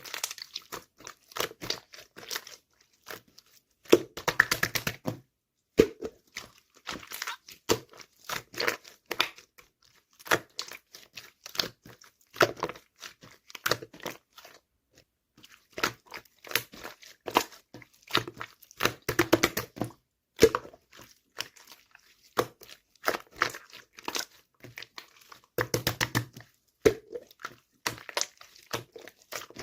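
Paper or plastic being handled close up: irregular crinkling and rustling with tearing sounds and small taps, in short clusters with brief pauses between.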